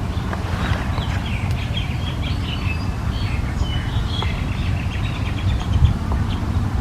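Small birds chirping: many short, quick chirps in busy runs, over a steady low rumble.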